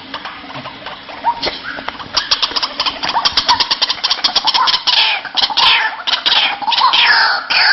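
White-breasted waterhen calling: a fast run of short repeated notes starts about two seconds in, louder and louder, and about five seconds in turns into repeated calls that slide down in pitch.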